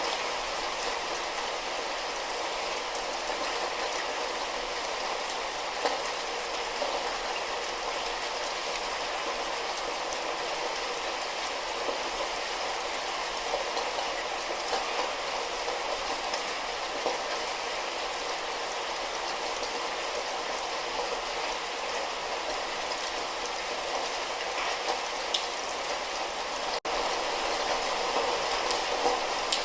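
Light rain falling: a steady hiss with scattered faint drop ticks. It cuts out for an instant near the end.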